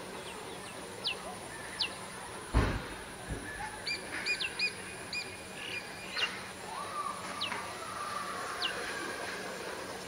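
Wild birds calling around a marshy pond: short high whistles that drop in pitch, spaced a second or more apart, and a quick run of chirps about four seconds in, over a steady high insect-like hiss. A single dull thump about two and a half seconds in is the loudest sound.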